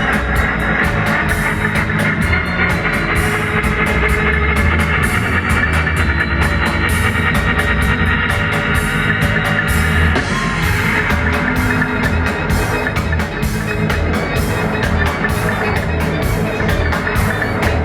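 Live roots reggae band playing an instrumental passage: a heavy bass line under a steady rhythm of short, regularly repeating strokes, with no vocals.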